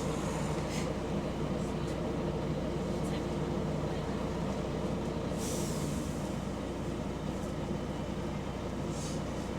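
Bus engine running steadily, heard from inside the bus, with the drone of a leaking exhaust. A short air hiss about five and a half seconds in.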